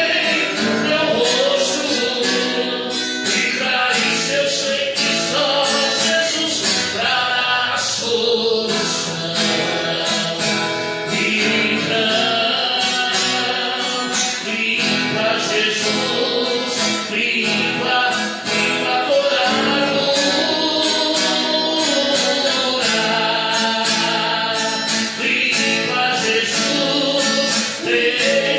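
Gospel worship song: voices singing over guitar accompaniment with a steady beat.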